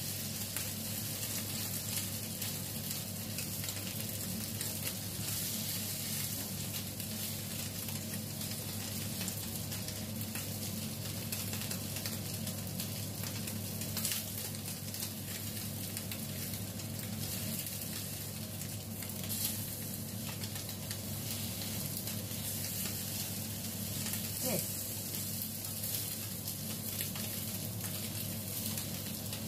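Bitter melon rings and egg sizzling steadily in a frying pan with a thin film of oil, with a few light clicks of the spatula against the pan.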